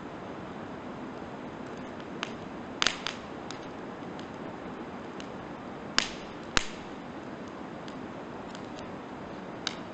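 Firewood burning in a campfire, crackling with sharp pops as the wood bursts: a few small snaps and several louder pops, the loudest about three seconds and six seconds in, over a steady hiss.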